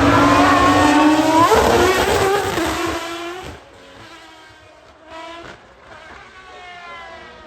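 High-revving supercar engine accelerating hard past, its pitch climbing with a gear change about a second and a half in. It then drops away quickly, and fainter rising revs carry on further off.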